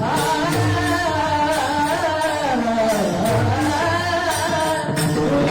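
A man singing in long held notes that glide and bend in ornamented runs, over steady instrumental accompaniment with light percussion.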